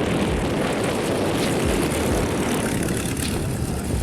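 Propeller aircraft engine running steadily, a dense low rumble with no clear pitch.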